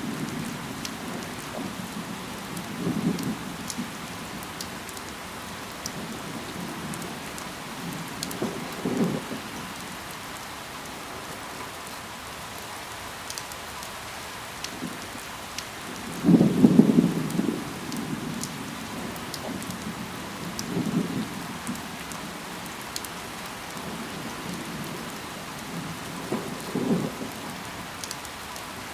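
Steady rain falling, with scattered sharp drop ticks. Short low rumbles come and go about every four to eight seconds, the loudest roughly two-thirds of the way through.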